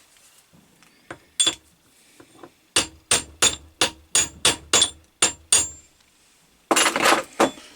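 Light hammer taps on a stuck finger of an Atlas 10 lathe's fixed steady, knocking it to free it in its bore: two taps, then a steady run of about nine, roughly three a second. A short rasping noise near the end.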